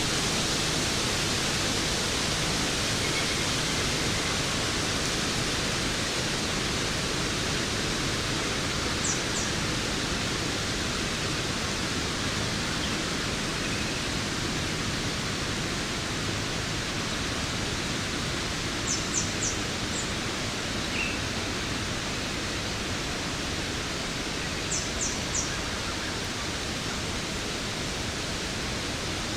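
Waterfall rushing steadily, an even hiss of falling water. A few short high chirps sound over it, twice in quick runs of three.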